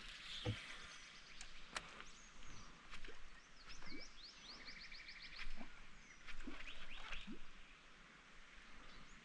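Birds calling and singing, including a quick run of about eight falling notes near the middle, with a few light knocks and clicks scattered through.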